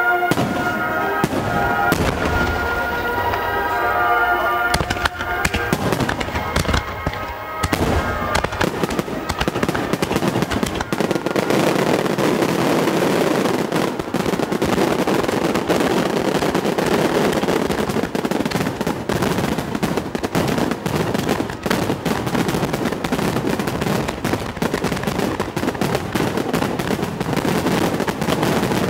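Fireworks: sharp bangs of shells bursting over music for the first several seconds, then a loud, continuous dense crackle of rapid pops from an aerial Niagara cascading-waterfall firework.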